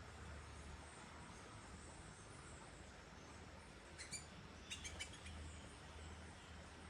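Small birds giving a few brief, faint calls, a cluster about four seconds in and another about a second later, over a low steady hum.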